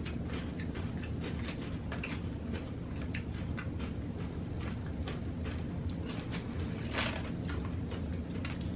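Close-up chewing of crunchy tortilla chips: irregular crunches, several a second, with a louder crunch about seven seconds in, over a steady low hum.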